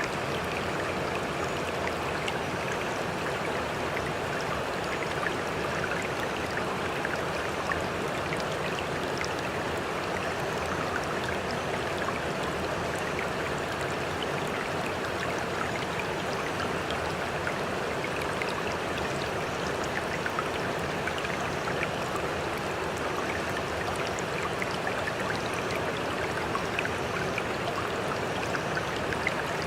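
Sea water rushing steadily, full of small fizzing, crackling splashes, with no separate wave surges.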